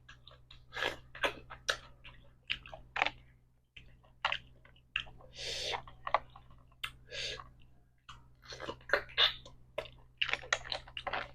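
A person chewing and smacking their lips close to the microphone while eating spicy seafood papaya salad, in many short, irregular wet clicks and smacks, over a faint steady low hum.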